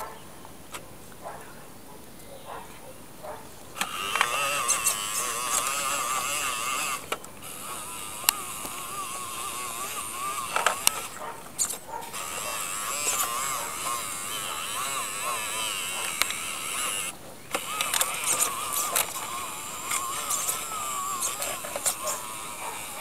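Radio-controlled Bruder Scania truck's electric drive motor and gearbox whining as it drives, with a slightly wavering pitch. The whine starts about four seconds in after a few light ticks and stops briefly three times before running on.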